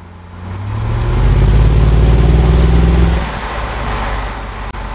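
2001 Jaguar XK8's V8 exhaust under a rolling acceleration, the engine note building loudly and then dropping off suddenly about three seconds in as the driver eases off, settling to a steady cruising hum.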